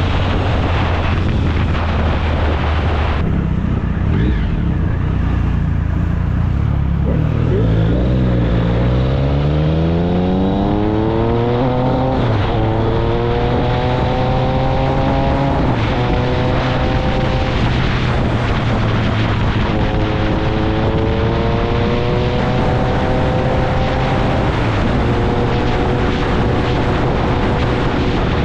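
Triumph Speed Triple 1050's inline-three engine through an SC-Project exhaust under hard acceleration: a steady drone at first, then about seven seconds in it pulls up through the gears, the pitch rising in each gear and dropping back at four upshifts a few seconds apart. Wind rushes over the microphone throughout.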